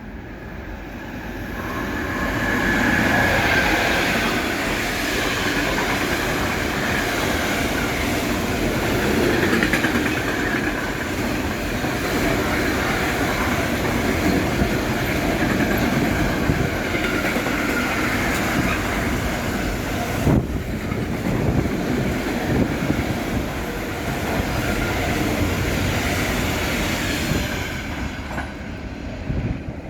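A loaded container freight train, hauled by a TRAXX class 186 electric locomotive, rolling past: wheels clattering over the rails with a wavering squeal from the wagons, one sharp knock about two-thirds of the way through. It swells over the first few seconds and fades near the end.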